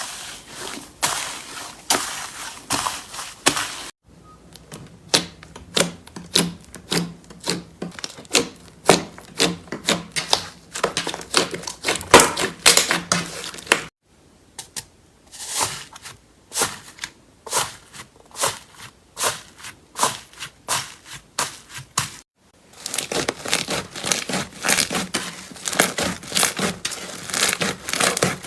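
Slime being squeezed and pressed by hand, giving fast runs of crackling pops and clicks. The sound breaks off and starts again differently about 4 seconds in, near the middle and again past 22 seconds.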